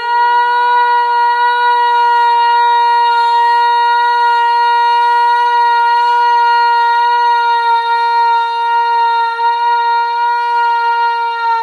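A loud, sustained high tone with rich overtones, held at one steady pitch for over ten seconds without a break.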